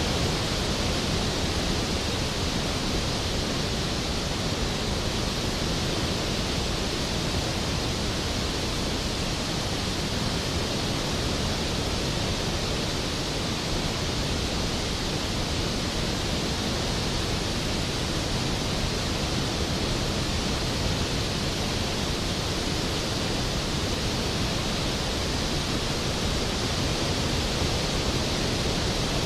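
Skógafoss waterfall's falling water: a dense, steady rushing roar of white noise that never changes.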